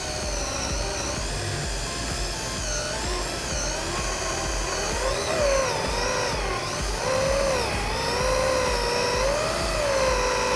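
Brushless electric motor of an RC drag car whining, its pitch rising and falling smoothly over and over as the throttle is worked to spin and warm the tires.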